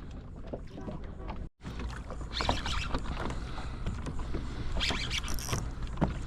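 Water sloshing and splashing around a fishing kayak, with two louder splashy bursts, over a steady low wind rumble on the microphone. The sound drops out completely for a moment about a second and a half in.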